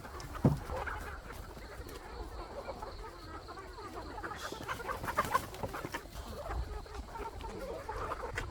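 Domestic chickens clucking, many short calls overlapping throughout, with a single knock about half a second in.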